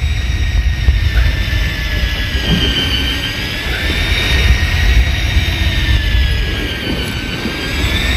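Electric fishing reel's motor whining steadily as it winds the line in with a hooked cuttlefish, its pitch wavering slightly under the load, over a strong low rumble.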